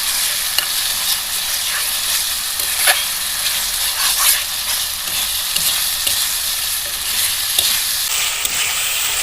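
Curry masala of onion, ginger-garlic paste, ground spices and tomato paste sizzling in hot oil in a pan while being stirred, with a spatula scraping and knocking against the pan now and then.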